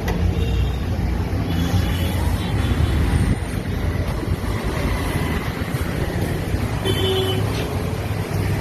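Motor vehicle engine noise: a steady low running rumble with no change in speed.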